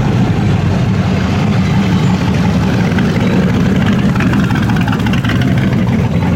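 American muscle car V8 engine running steadily with a low rumble.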